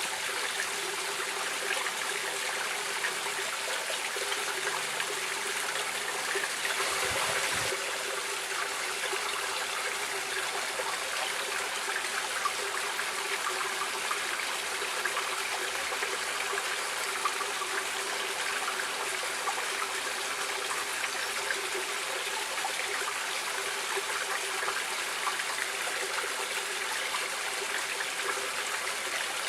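Stream water running and trickling as a steady, even rush, swelling briefly about seven seconds in.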